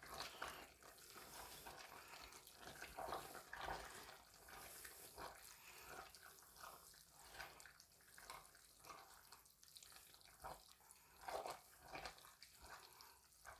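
Faint, irregular wet squelches and light scrapes of a spoon stirring thick, creamy egg noodles in a pot.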